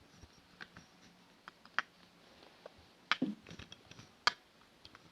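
Light, irregular clicks and taps of wooden toy train cars being pushed along a wooden track, with a sharper knock about three seconds in and another just past four seconds.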